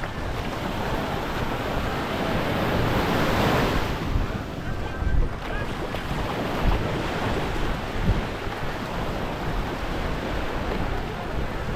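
Small waves washing onto the beach, one swell building and breaking about three to four seconds in, with wind gusting over the microphone.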